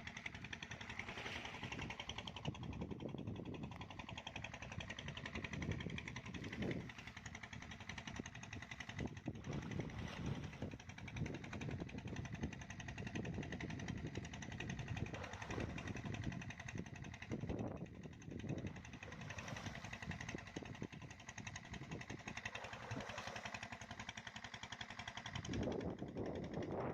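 A motor running steadily, with a fast even pulsing, and now and then a louder low surge.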